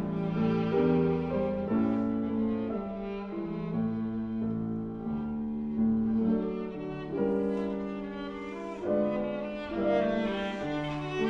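Live classical duo music: a viola playing sustained bowed notes with piano accompaniment.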